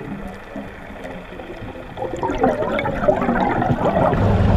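Water gurgling and bubbling, quiet at first and then busier with many small bubbly sounds from about halfway through. A steady engine hum comes back near the end.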